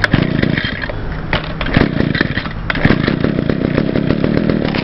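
Echo SRM-2100 string trimmer's small two-stroke engine being restarted: it runs unevenly at first, then settles into steady running about three seconds in.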